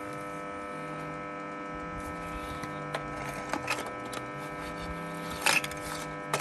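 Electric motor running at a steady speed with an even hum of several tones, with scattered light clicks and a sharp knock near the end.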